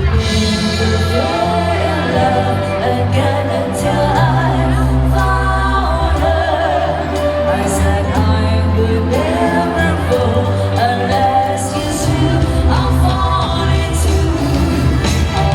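Live band playing a pop-rock song through a PA system: bass and drums under a wavering sung melody.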